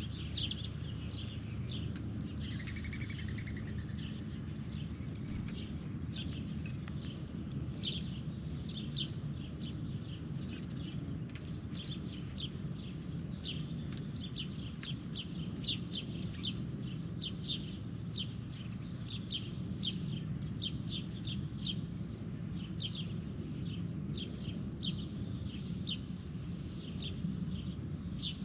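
Birds chirping in many short, sharp notes that come thicker from about eight seconds in, over a steady low rumble.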